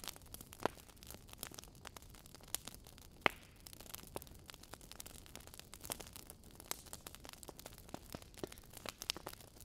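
Wood fire crackling in a fireplace: irregular sharp snaps and pops over a faint hiss, with a louder snap about three seconds in.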